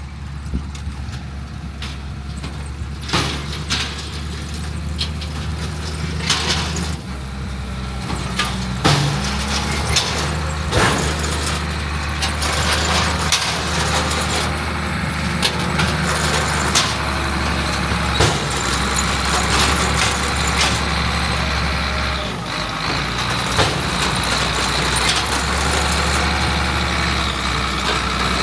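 Heavy diesel farm machinery running steadily, with frequent short knocks and clanks over the engine.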